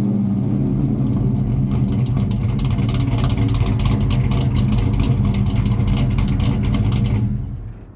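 1998 Dodge Ram 1500's 5.9 L V8 running steadily through an exhaust with long-tube headers, no catalytic converters, an H-pipe and Black Widow Angry Housewife mufflers. The engine shuts off about seven seconds in.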